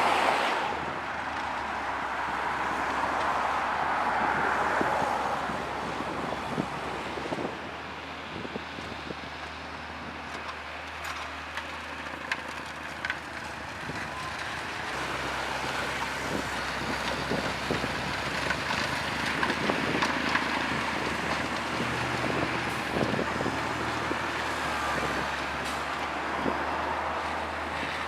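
Road traffic with a steady engine hum and a hiss of tyres that swells as vehicles pass, with wind on the microphone.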